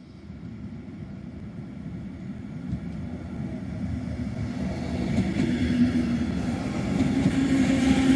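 Double-deck regional train approaching along the track and running past, its rumble growing steadily louder. A steady low hum comes up under the rumble in the second half as the train draws level.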